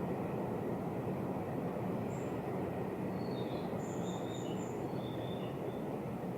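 Steady low rumble of a distant train, with a few short, high bird chirps about two to five seconds in.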